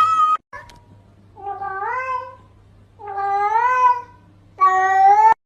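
A domestic cat meowing: a call trailing off at the start, then three separate drawn-out meows, each rising in pitch. The last meow cuts off suddenly near the end.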